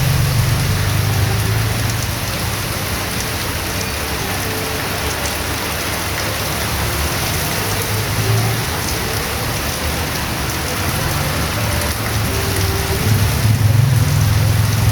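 Heavy rain pouring steadily onto a street, an even hiss. A low rumble swells near the start and again near the end.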